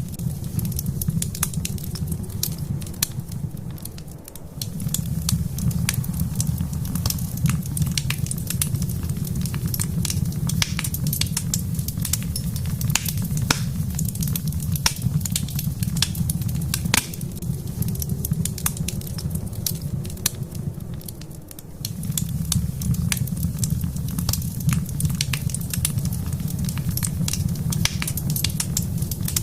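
Wood fire crackling in a fireplace, with many irregular sharp pops and snaps over a steady low rumble that dips briefly twice.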